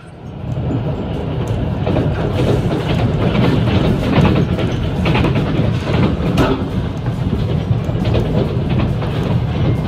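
Moving passenger train heard from inside the carriage: a steady low rumble with wheels clicking over the rails, fading in at the start.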